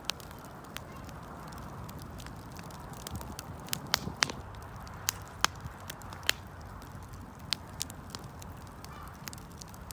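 Wood campfire burning: a steady soft hiss and rumble of the flames with irregular sharp crackles and pops, a few louder pops through the middle.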